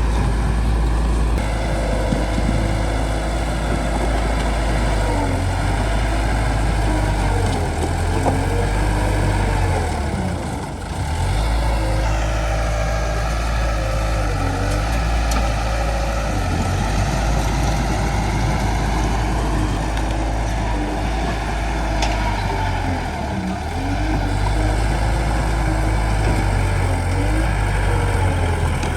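Bulldozer's diesel engine working under load, its pitch rising and falling as it pushes, with a brief easing of the engine about ten seconds in.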